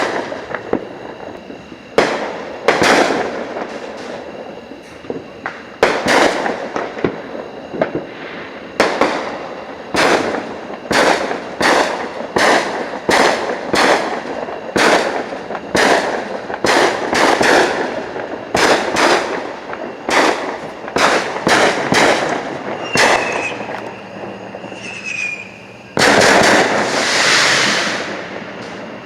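Fireworks going off one after another: a long string of sharp bangs, each trailing off in crackle or echo, coming about one or two a second at the busiest. Near the end a louder rushing hiss lasts about two seconds.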